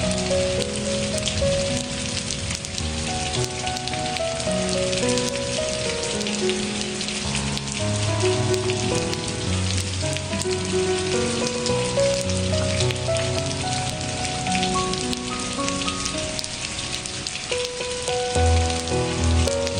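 Steady rain falling on a surface, a dense patter of drops, under slow, soft instrumental music of held notes that change about once a second.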